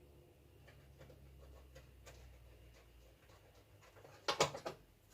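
Small tools and parts being handled on a workbench during an LED TV backlight repair: scattered faint clicks over a low hum, then a short, louder cluster of clicking and scratching about four seconds in.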